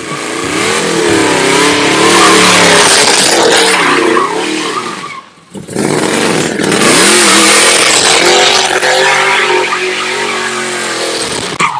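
Car engine revving, its pitch rising and falling, under a loud hiss of tyre noise. It comes in two runs with a brief drop about five seconds in.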